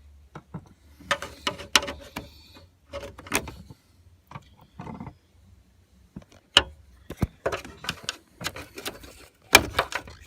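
Irregular clicks, knocks and short rattles of hands working plastic clips, a rubber grommet and a wiring connector in a pickup truck's door jamb, the loudest clusters about a second in and near the end.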